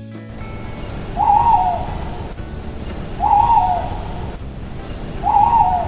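Owl hooting three times, about two seconds apart, each hoot short and slightly wavering in pitch.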